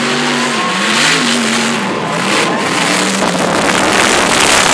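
Supercharged mud truck engine revving hard, its pitch rising and falling. A loud rushing noise builds under it toward the end.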